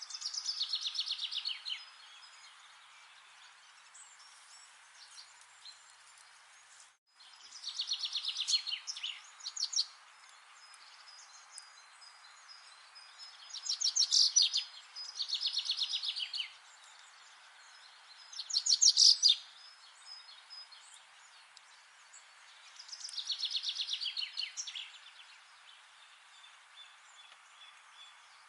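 A songbird singing six short phrases of rapid, high, trilled notes, each a second or two long, with pauses of several seconds between them, over a steady background hiss.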